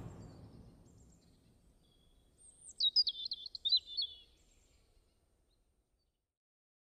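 A fading rush of noise, then a short run of quick, high bird chirps, opening with a falling whistle.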